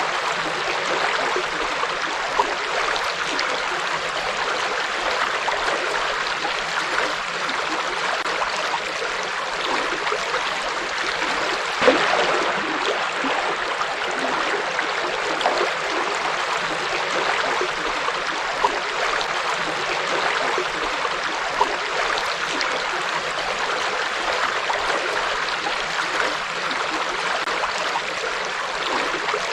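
Forest river flowing: a steady rush of water with occasional small splashes.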